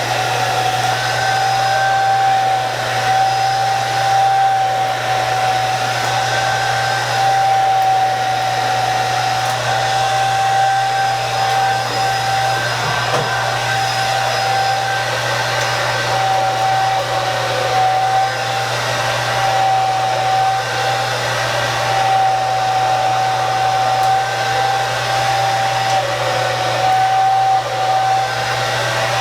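Hand-held hair dryer running steadily while drying hair: a continuous rush of air with a steady whine from the motor.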